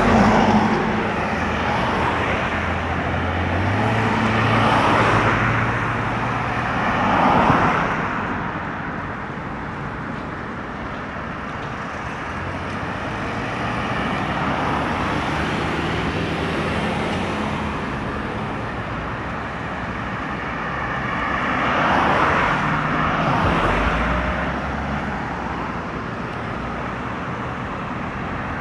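Road traffic on a busy highway: cars and heavier vehicles passing one after another, with engines humming and tyre noise swelling as each one goes by, loudest a few times near the start and again about three-quarters of the way through.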